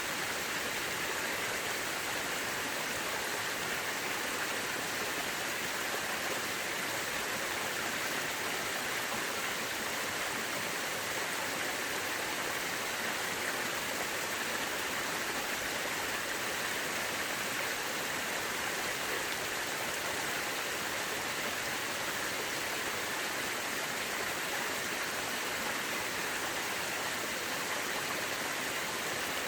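Mountain river running: a steady, even rush of flowing water with no breaks or changes.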